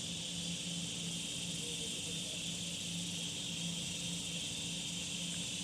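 Cicada buzzing: a steady, high-pitched drone that does not change, with a low pulsing hum underneath.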